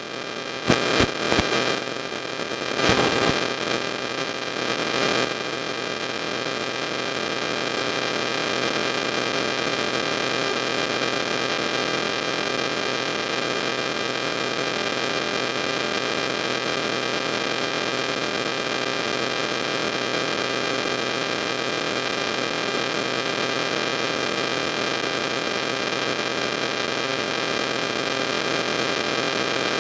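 Steady hiss with electrical hum and several thin steady tones, the noise of the recording chain with nobody speaking. A few short knocks come in the first few seconds.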